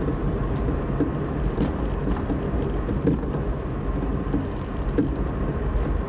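Worn anti-roll bar end links knocking under a car driven at steady cruising speed: light, crisp, irregular taps over steady tyre and road noise. The links' ball joints are worn and have play.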